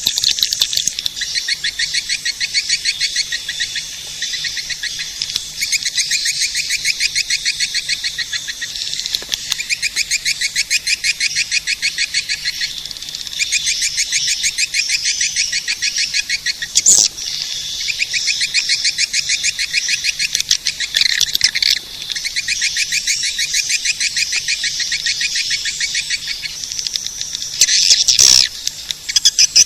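Swiftlet lure call: a dense, continuous chatter of rapid, high-pitched chirping trills from edible-nest swiftlets, with a sharp click about halfway through and another near the end.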